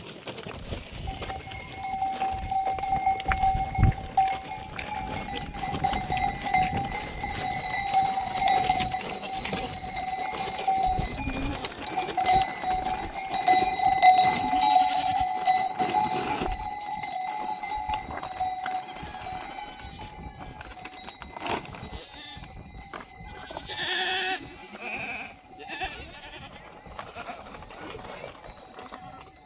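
Bells on a flock of sheep and goats ringing on and on as the animals move, over scattered knocks and shuffling, fading after about twenty seconds. A few short animal calls near the end.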